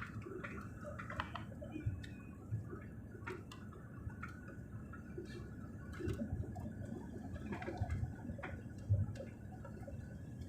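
Low, steady airliner cabin rumble, with scattered small clicks and knocks throughout.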